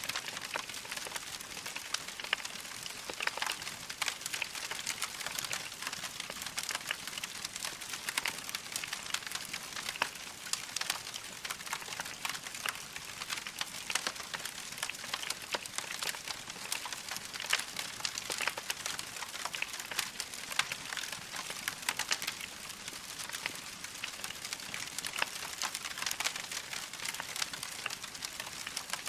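Wood fire in a fireplace crackling steadily: a dense stream of small pops and snaps.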